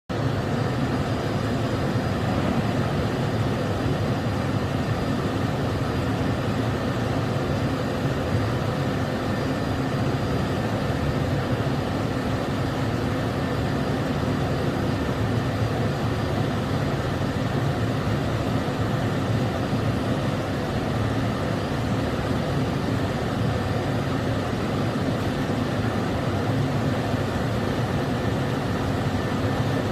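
Schiess Froriep CNC vertical turning lathe running: a steady mechanical hum and noise that holds an even level. A faint high whine sits over it for the first ten seconds or so.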